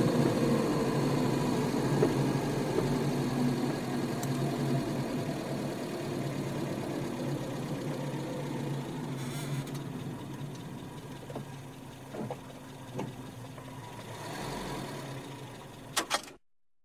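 Sports car engine heard from inside the cabin, slowing with a falling pitch and settling to an idle that grows gradually quieter. A few light clicks come later, then two sharp clicks near the end, and the sound cuts off.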